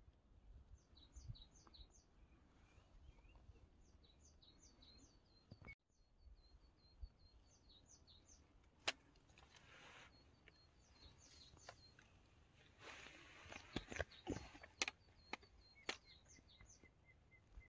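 A songbird singing, faint, in repeated phrases of short, high, falling notes every few seconds. A few sharp clicks and some rustling, loudest in the last few seconds, sound over it.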